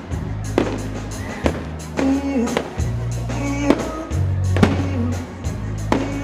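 Fireworks going off over loud music with a heavy bass line and a sung melody, sharp bangs coming about once a second.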